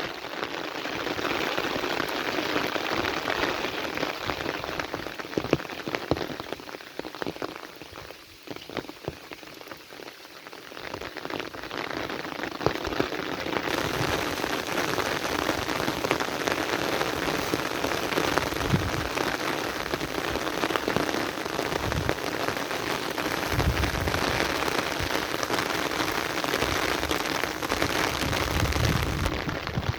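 Heavy rain falling in a steady, dense hiss, easing off briefly about eight seconds in before picking up again.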